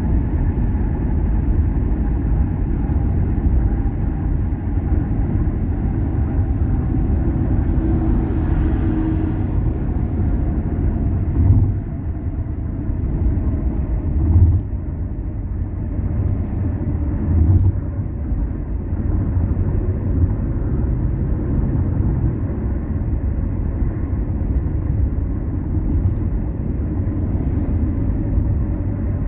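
A car driving along a road, with a steady engine and tyre rumble. There are a few short thumps near the middle.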